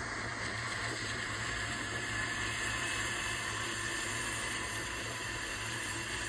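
BNSF freight train's GE C44-9W diesel locomotives passing close by: a steady low engine hum under an even hiss of wheels on the rails.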